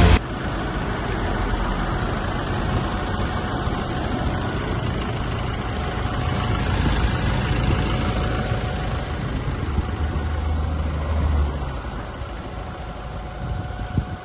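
Toyota Hilux 2.8-litre four-cylinder turbodiesel engine running steadily at idle. The level drops a little about eleven and a half seconds in, and a short click comes near the end.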